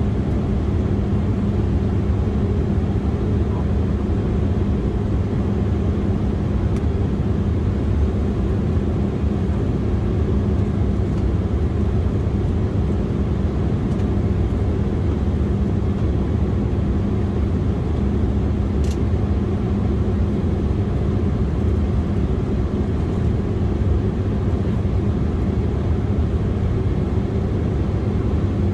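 Steady cabin noise of an Embraer E175 airliner in flight: a low rumble of its CF34 turbofan engines and rushing air with a constant hum, and a faint click about two-thirds of the way through.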